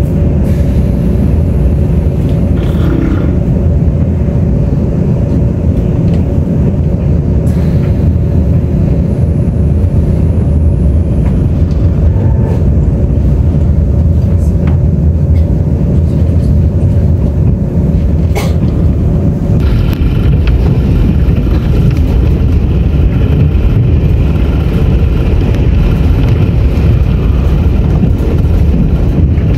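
Taiwan Railways Tze-Chiang express train running at speed, heard from inside the passenger car: a loud, steady rumble with a constant hum over it. A sharp click comes a little over halfway through, and soon after the sound turns harsher, with more hiss on top of the rumble.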